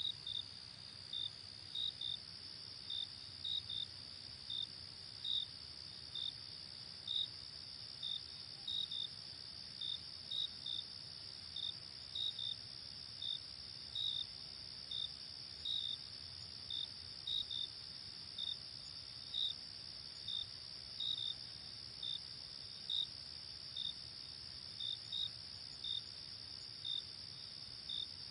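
Night insects, crickets, chirping: a continuous high trill with short, louder chirps repeating about one and a half times a second, sometimes in pairs.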